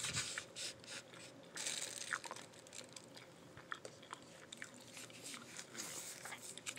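A person chewing crunchy food close to the microphone: irregular crisp crackles and small clicks of biting and chewing.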